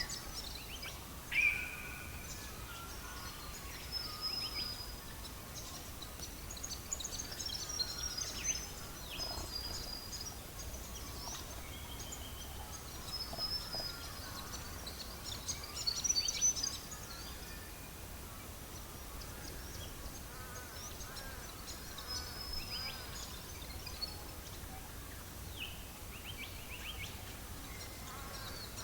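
Birds chirping and whistling in short, scattered calls over a steady low background noise. The loudest call comes about a second and a half in, with a busy run of calls around the middle.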